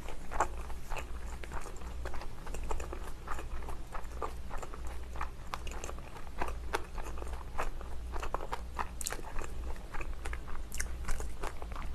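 A person chewing a mouthful of spicy dumpling close to a clip-on microphone: many short, irregular clicks and smacks of the mouth.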